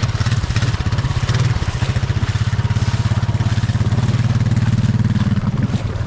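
Small off-road vehicle's engine running at a steady, low speed, with a fast, even pulsing exhaust beat.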